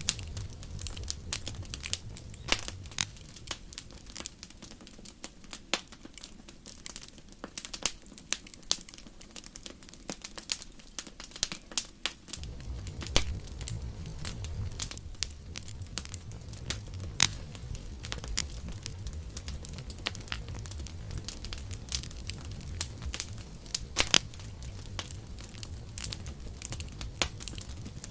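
Wood campfire crackling, with many sharp pops over a low rumble of flame. The rumble fades for several seconds near the middle and then comes back.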